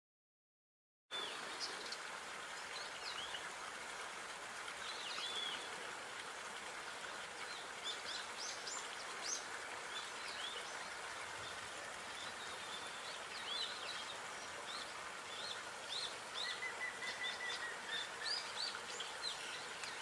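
Small birds chirping and singing in short, quick phrases over a steady outdoor hiss. Near the end one bird holds a level whistled note for about a second. The sound cuts in suddenly about a second in.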